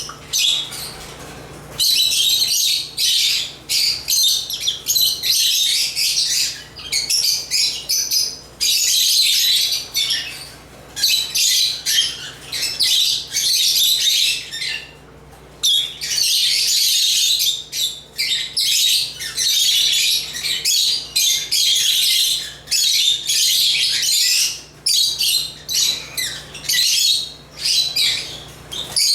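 African lovebirds (Agapornis) chirping and chattering in fast, high-pitched runs, broken by short pauses at the start and twice around the middle.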